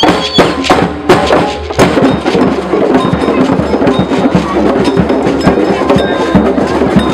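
Music driven by percussion, with rapid, dense drum and wood-block strikes.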